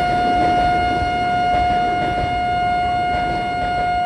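Steady electronic warning tone on a shinkansen platform, one unchanging pitch held throughout, signalling that a train is about to depart, over platform noise.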